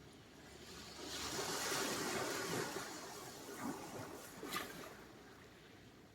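Sea surf: a wave breaks and rushes in about a second in, its hiss slowly fading, with two small sharp splashes near the end.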